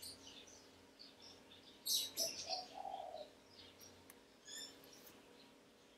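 Birds chirping faintly in the background, with a louder cluster of sharp chirps about two seconds in followed by a lower, longer note.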